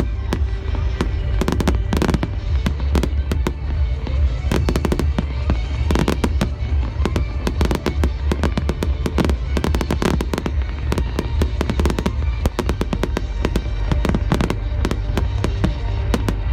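Fireworks display: a dense, unbroken run of bangs and crackles, many a second, over a heavy low rumble.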